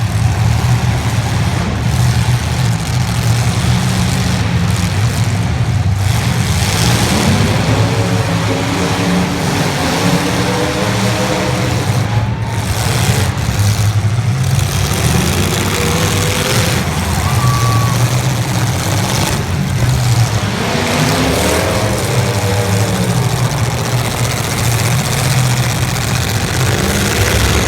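Demolition derby cars' engines running loud together, with revs rising and falling now and then.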